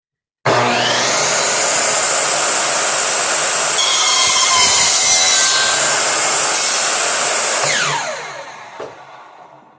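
A power tool switched on, cutting away the split top of a wooden axe handle. It runs steadily for about seven seconds, then is switched off and winds down with a falling whine.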